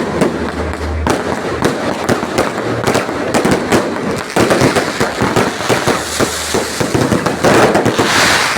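Fireworks going off in a dense, continuous barrage of rapid bangs and crackles, with a louder hissing rush near the end.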